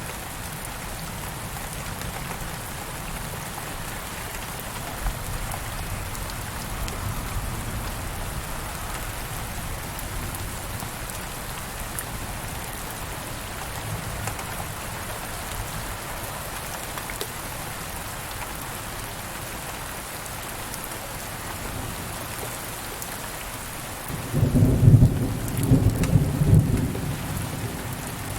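Steady rain falling on a surface, with a loud rolling clap of thunder near the end that rumbles for about three seconds and then fades.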